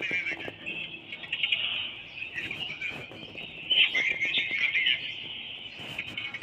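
A dense, continuous chorus of high chirping that swells and fades.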